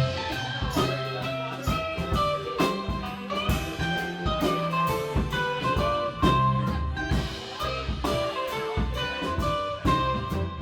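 Live rock band playing an instrumental passage: a guitar playing a line of short, bright notes over bass and a drum kit keeping a steady beat.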